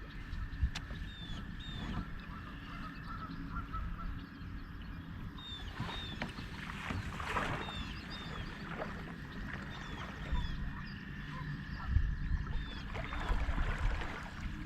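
Birds calling around the lake, short high chirps repeated again and again, often in pairs, over a low rumble of wind and water.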